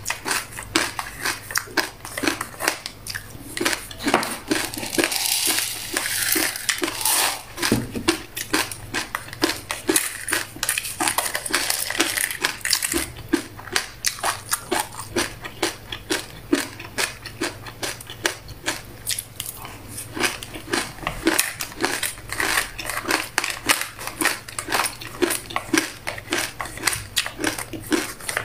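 Close-up crunchy chewing of buckwheat and black sesame seeds: a dense, fast run of small crackling crunches, several a second. A brief rustling hiss about five seconds in.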